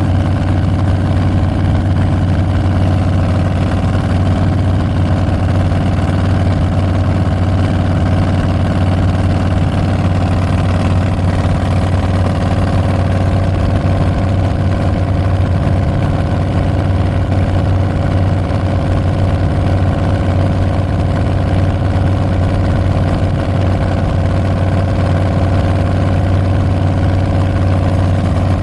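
Harley-Davidson Street Bob's Milwaukee-Eight 114 V-twin running through Tabs Performance slip-on mufflers with Zombie baffles, a loud, deep exhaust note held at a steady engine speed.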